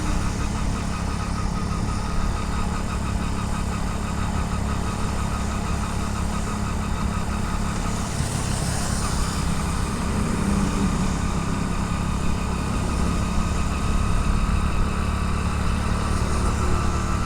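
Motorcycle engine running steadily while riding, picked up by a helmet-mounted camera with a continuous rush of wind and road noise. Briefly, about halfway through, a higher hiss rises and fades.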